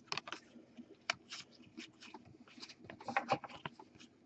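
Trading cards being handled and flipped through one by one: faint, irregular clicks and soft slaps of card stock, bunched more closely about three seconds in.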